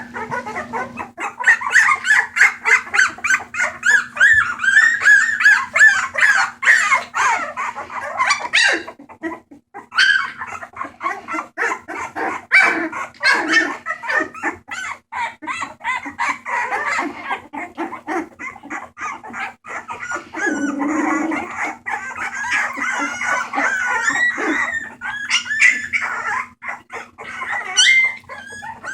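Several bulldog puppies yipping and whining together, their high-pitched calls overlapping almost without pause.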